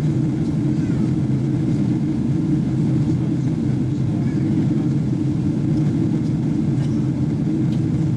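Steady, low cabin drone inside a Boeing 777-300ER airliner in flight, the mix of engine and airflow noise heard from a passenger seat, unchanging in level.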